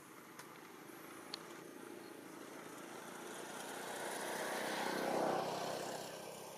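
A motor vehicle driving past: its engine grows steadily louder, is loudest about five seconds in, then fades away.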